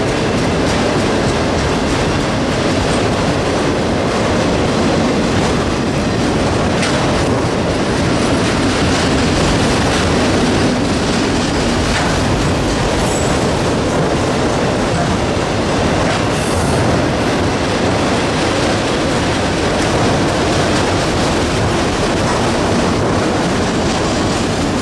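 Freight train cars rolling past, a steady loud rail noise with occasional clicks of wheels over the rails.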